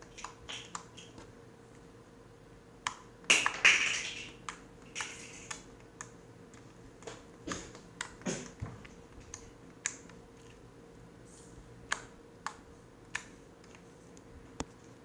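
Fingers poking and pressing homemade slime, making irregular sharp clicks and small pops, with a louder, longer wet squelch about three to four seconds in.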